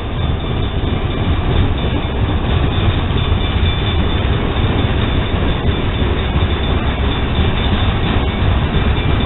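CN mixed freight train rolling past at a grade crossing: a steady, heavy rumble of freight cars on the rails.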